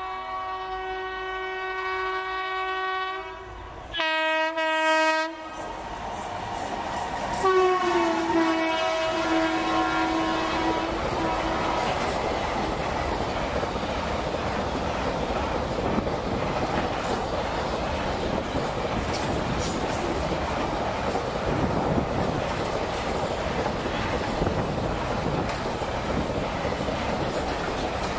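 Indian Railways container freight train passing: the locomotive's horn sounds three times, a long blast, a shorter louder one, then a long blast that drops in pitch as it goes by. After that comes the steady rumble and clatter of the container wagons rolling past, with scattered wheel clicks.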